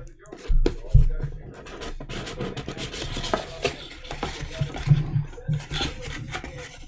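Trading-card packaging and cards being handled: scratching and rubbing, with many small clicks as the last pack is opened and the cards are slid out.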